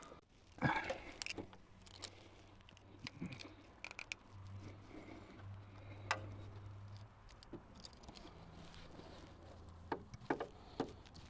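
Scattered faint clicks and knocks of hands and tools working at a motorcycle's spark plug and plug cap to set up a spark check, with a faint low hum in the middle.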